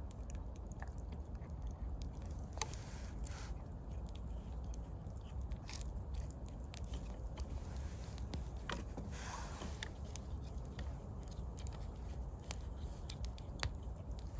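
Small wood fire crackling and snapping with many irregular sharp pops, while twigs are handled, with brief rustles about three and nine seconds in.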